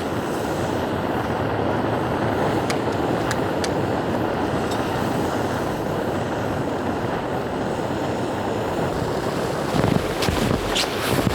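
Portable camping gas stove burner running with a steady roar, heating water for tea. A few knocks and handling clatters near the end.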